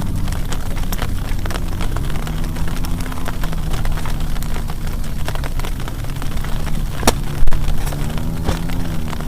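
Heavy rain pelting a plastic tarp shelter, a dense patter of sharp drop hits over a steady low rumble, with one louder hit about seven seconds in.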